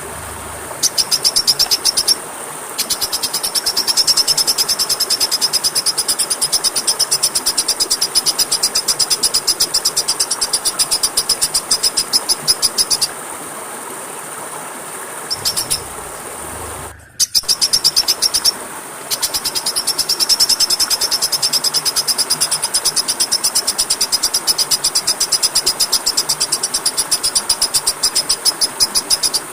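A small songbird singing a rapid, even trill of high chipping notes, in long runs broken by short pauses, over a steady hiss.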